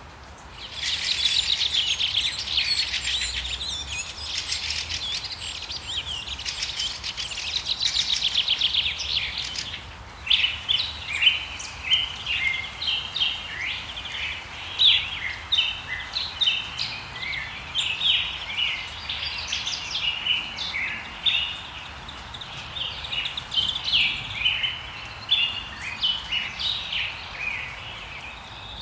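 Birds calling outdoors: a dense, fast trill for the first ten seconds or so, then many short chirps overlapping one another.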